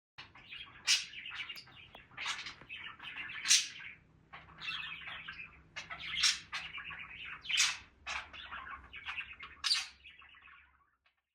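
Pet budgies chirping and chattering: a continuous run of quick, varied warbled calls with several sharper, louder chirps, fading out near the end.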